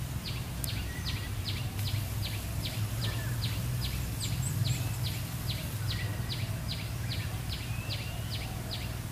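A small bird calling over and over: short, high notes that each slide downward, evenly spaced at about two and a half a second, over a steady low rumble.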